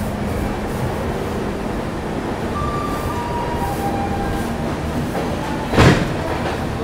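Passenger train rumbling steadily at a station platform, with a few faint brief squeals. A single sharp clank comes about six seconds in.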